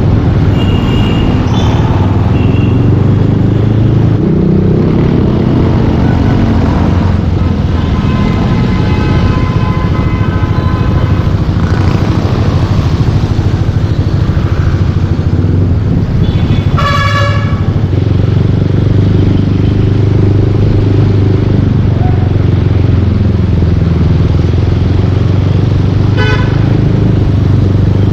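Yamaha Aerox 155 V2 scooter's single-cylinder engine running through a full Yoshimura exhaust while riding in traffic, its pitch rising and falling with the throttle. Partway through, a vehicle horn honks once for about a second, with short toots near the end.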